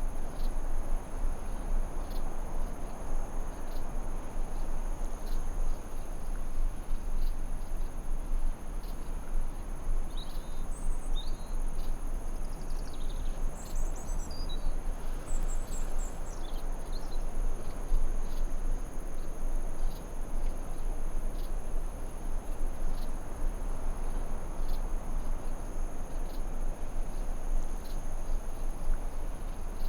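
Forest ambience: a steady, high-pitched insect trill, like crickets, over a low even hiss. A few short bird chirps break in between about ten and seventeen seconds in.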